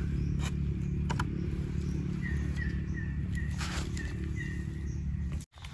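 A forest bird calling a run of about six short notes at one pitch, a little over two a second, over a steady low rumble. A few crackling rustles of dry leaf litter are heard, and the sound cuts out abruptly for a moment near the end.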